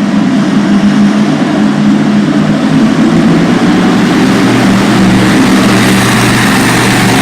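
Monster truck engine running loud and steady, with a deep drone that strengthens slightly about two-thirds of the way through.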